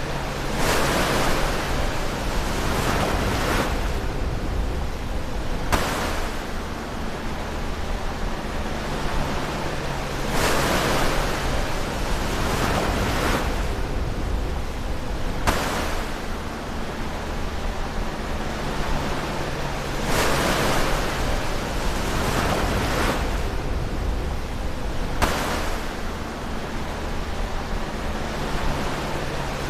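Ocean waves breaking close to the shore, each wave arriving with a sudden rush of surf about every five seconds and fading into a steady wash between breaks.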